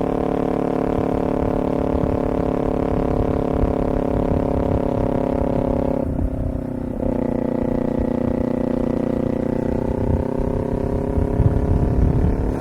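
A vehicle engine running steadily while under way, with a constant low wind rumble. About six seconds in the engine note breaks off for about a second, as at a gear change, then carries on with its pitch slowly shifting.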